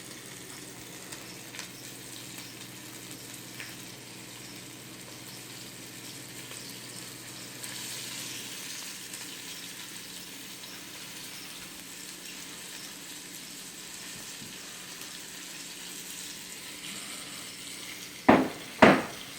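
Flour-dusted chicken pieces sizzling steadily in hot oil in a pan as they brown, the sizzle growing a little louder about eight seconds in. Near the end come two loud, sharp knocks.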